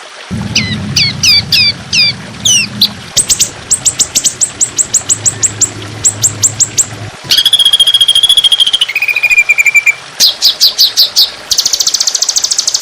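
Songbird calls from a bird-training recording: quick runs of sharp, high chirps and downward sweeps, broken about halfway by a buzzy held trill and then a lower trill, before the fast chirp runs return. A low hum sits under the first half.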